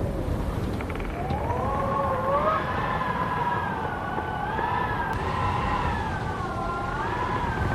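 Howling wind: a wavering whistle that rises and falls in pitch, starting about a second in, over a steady low rush of wind.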